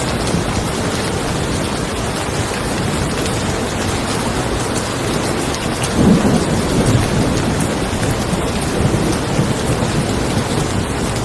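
Steady rain falling, with a low roll of thunder swelling about six seconds in and rumbling on for a few seconds before fading back into the rain.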